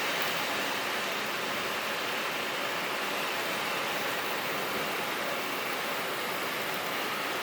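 Typhoon Faxai's wind and heavy rain making a steady rushing noise without a break.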